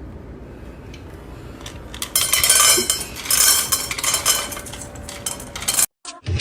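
Rapid clinking and rattling of small hard objects, starting about two seconds in and cutting off suddenly near the end.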